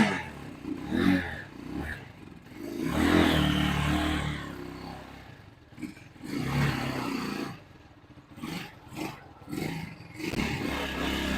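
The Vitacci GTT250's 229cc air-cooled single-cylinder four-stroke engine, just started with the choke on, revved in several throttle blips that rise and fall in pitch, with quieter idling between them.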